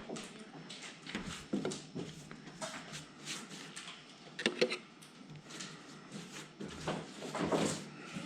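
Scattered knocks, clicks and clatter of objects being handled, with a sharper cluster of clacks about halfway through.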